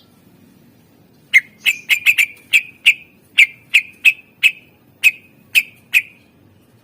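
Green leafbird (cucak ijo) giving a rapid series of about fourteen short, sharp whistled notes, a few per second and unevenly spaced. They start a little over a second in and stop about a second before the end.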